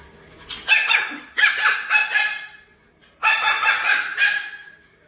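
Dog barking in two bouts of several quick barks, the second bout starting about three seconds in.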